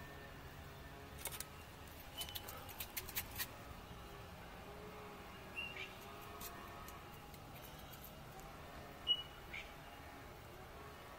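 A small bird chirps: short, high single notes every few seconds, the strongest a little after the middle. Bursts of light, sharp clicks and taps fall between them, thickest in the first few seconds.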